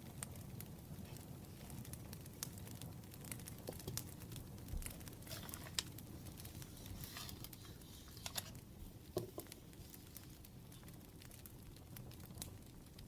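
Wood fire crackling faintly: irregular small pops and snaps over a low steady rumble, with a few soft rustles about halfway through.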